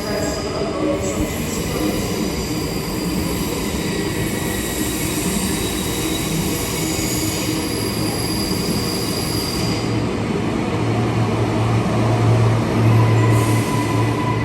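Electric suburban train moving through a station platform, its wheels squealing in long, high, drawn-out tones. A low hum grows louder over the last few seconds.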